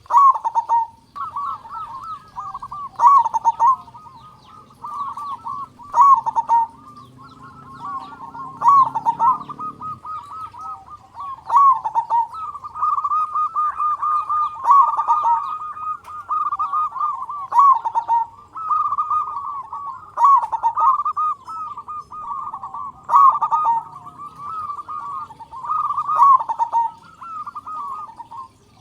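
Zebra dove (perkutut) cooing loudly in repeated trilling, warbling phrases, a new phrase every two to three seconds, with sharp clicks at the start of several phrases.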